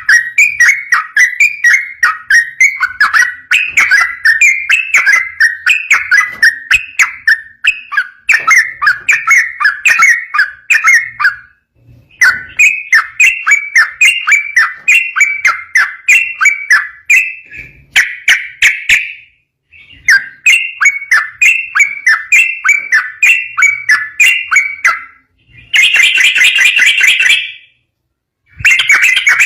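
Yellow-vented bulbul (trucukan) singing a long, rapid 'ropel' song: fast runs of short, bubbly whistled notes, broken by a few brief pauses, with a denser burst near the end.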